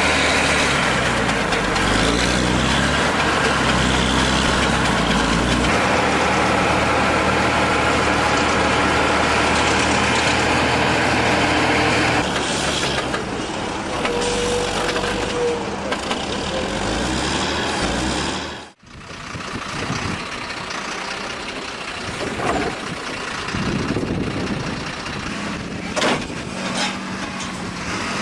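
Heavy diesel machinery working, its engine note stepping up and down in pitch. About two-thirds of the way in the sound cuts off abruptly. It is followed by quieter, rougher machine noise with a few short knocks.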